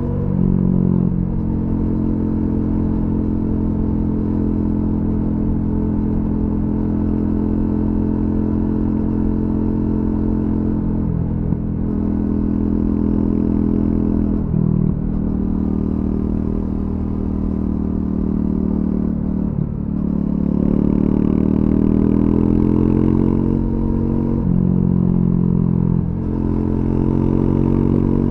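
Triumph Scrambler 400X's single-cylinder engine through its stock exhaust, heard from on board. The engine note rises under throttle and falls off again several times, with brief drops at gear changes.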